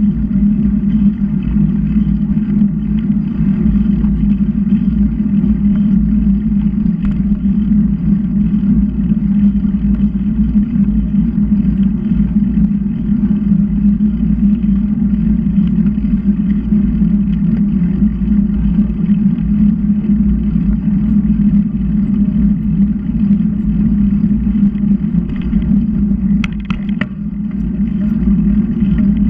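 Steady wind and road rumble on the microphone of a camera riding along on a bicycle, with a few short clicks or rattles near the end.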